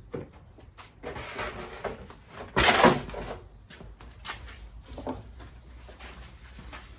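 Clicks and clunks of parts and tools being handled, with a louder clattering knock about two and a half seconds in.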